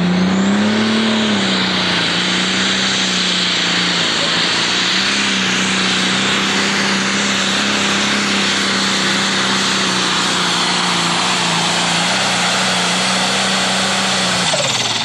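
Turbocharged John Deere Pro Stock pulling tractor's diesel engine at full throttle, pulling the sled down the track: a loud, steady drone holding one pitch, rising briefly about a second in and falling away near the end as the run finishes.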